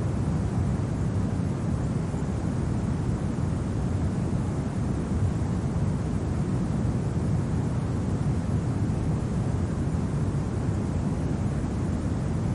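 Steady low wind rumble of a winter ambience, an even unchanging noise with no gusts, crackles or other events.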